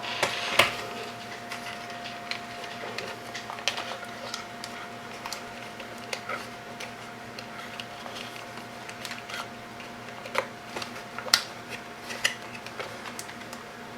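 Scattered light clicks and taps of wires, small parts and tools being handled at a workbench during soldering preparation, over a steady faint hum.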